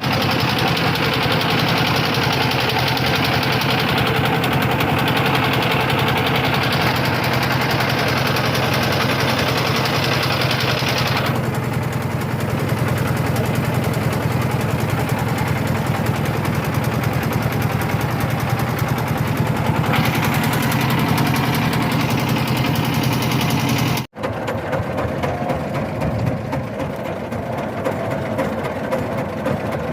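Boat engine running steadily with a low, even hum. It cuts out suddenly about three-quarters of the way through and comes back quieter.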